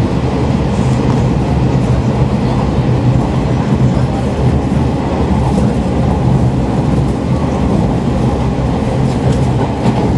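Kashima Rinkai Railway diesel railcar running at speed, heard from inside the car: a steady rumble of wheels on the rails over a low, even engine drone.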